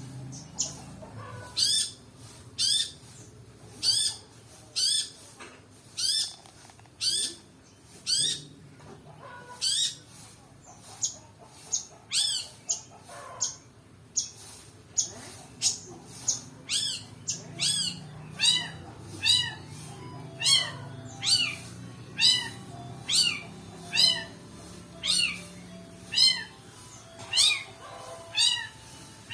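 Long-tailed shrike calling over and over, a sharp high note sweeping downward about once a second, with softer lower notes between the calls.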